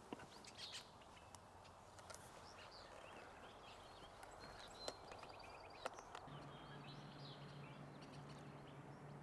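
Faint, scattered bird chirps over a very quiet outdoor background, with a few soft clicks; a low steady hum comes in about six seconds in.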